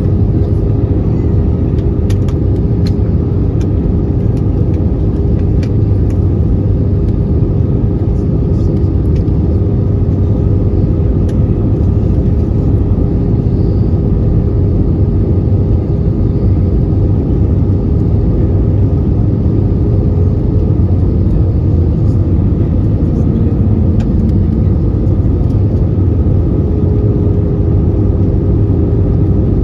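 Steady cabin noise inside an Airbus A320-214 airliner in flight: a constant rumble of the engines and airflow with a steady hum, and a few faint clicks.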